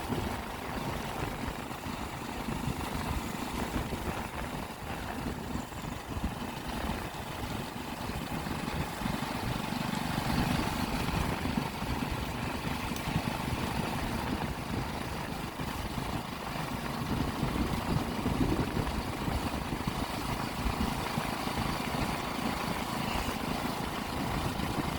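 Motorcycle being ridden at a steady pace, its engine running under a continuous rush of wind and road noise.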